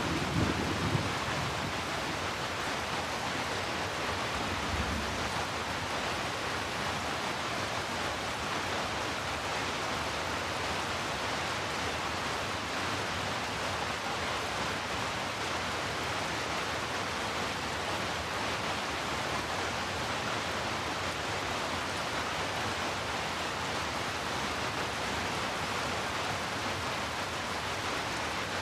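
Steady, even rain hiss. A low rumble, the tail of thunder, dies away about a second in.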